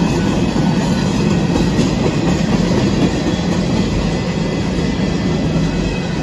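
Union Pacific ballast train's yellow ballast cars rolling past over a road crossing: a steady, loud rumble of steel wheels on rail.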